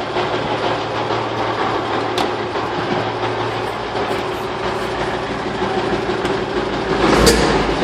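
1957 REO F-20 truck's Gold Comet six-cylinder engine running steadily after its first start in about 20 years, getting louder near the end.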